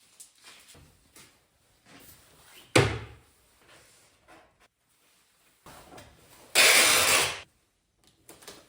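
A sharp thud about three seconds in, with a few small knocks around it, then a loud rush of noise lasting about a second, near seven seconds in.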